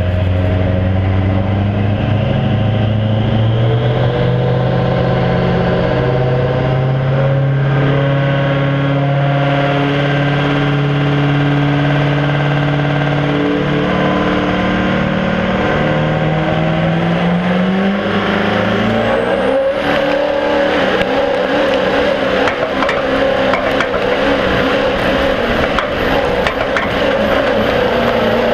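Diesel pickup truck engine running steadily, then revving up sharply about two-thirds of the way through, with a high whistle climbing alongside, and holding at the higher speed.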